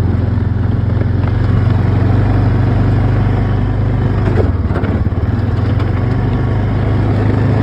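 Engine of a farm vehicle running steadily at a low, even note, which shifts briefly about four and a half seconds in.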